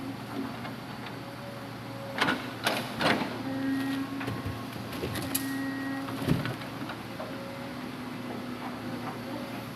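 Hitachi Zaxis 200-5G hydraulic excavator working, its engine running steadily with a whine from the hydraulics that comes and goes as the arm is moved under load. Several sharp knocks about two to three seconds in and once more past the six-second mark.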